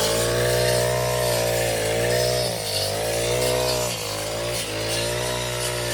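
Grass cutting machine's small petrol engine running under load, its pitch dipping and recovering every second or so as it cuts through grass.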